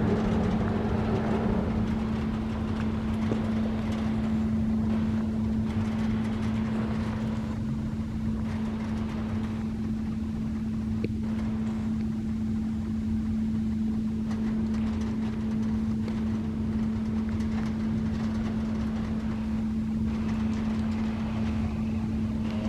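Steady mechanical drone with a constant low hum that does not change in pitch, over a low rumble.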